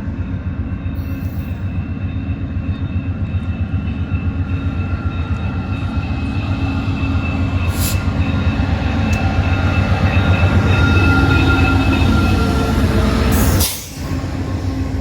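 CN freight train passing close by, a heavy rolling rumble from its cars with a few steady high tones from the wheels over it, growing louder to a peak and dropping briefly near the end.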